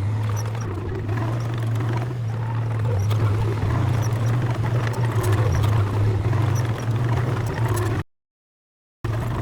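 Heavy diesel earthmoving machine running steadily under load with a deep, even engine drone and a light metallic rattle. The sound cuts out completely for about a second near the end, then resumes unchanged.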